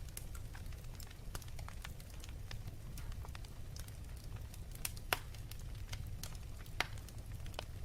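Fire burning with a steady low rumble and irregular crackling pops, two louder pops near the middle and late on.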